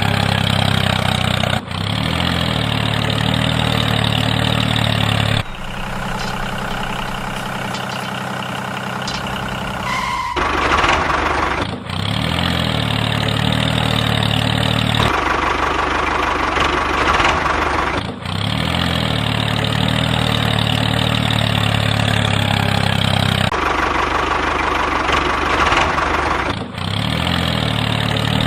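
Engine running steadily with a low, even hum. The sound changes abruptly every few seconds, and a higher whine joins it about ten seconds in.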